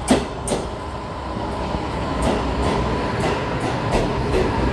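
Taiwan Railway EMU530 local electric train rolling into the station along the platform: a steady rumble with its wheels clacking over rail joints, a sharp clack right at the start and then a run of them every third of a second or so, over a steady high tone.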